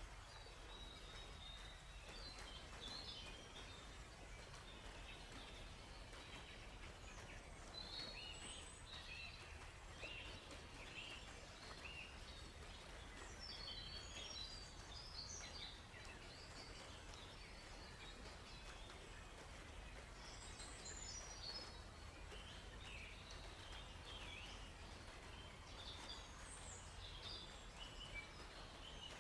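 Faint forest ambience: songbirds chirping in scattered short bursts over a steady low rush of flowing water.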